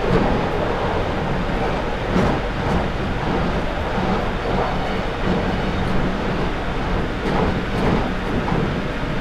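London Underground 2009 Stock (Bombardier Movia) train running through a tunnel, heard from inside the carriage: steady traction-motor hum and wheel-on-rail rumble, with a few sharp clacks as the wheels cross rail joints.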